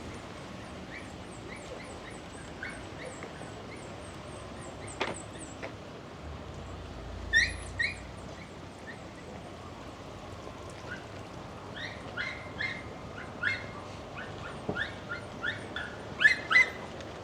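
Short, high-pitched animal calls in irregular groups over a steady background hiss. A loud pair comes about seven seconds in, then a run of calls starts about twelve seconds in, with the loudest two near the end.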